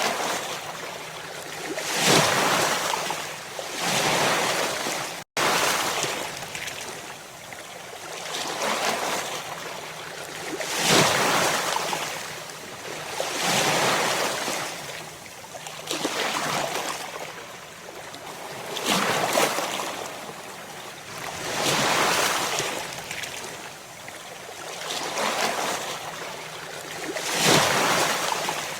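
Ocean waves breaking and washing on a shore, the surf swelling and fading every two to three seconds. The sound cuts out for an instant about five seconds in.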